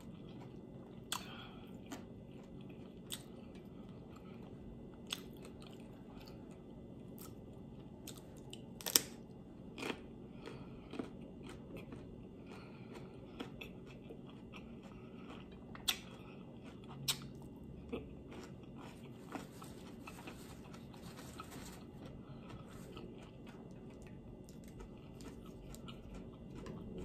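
A person chewing and crunching raw vegetables, with sharp crunches every few seconds over a steady low background.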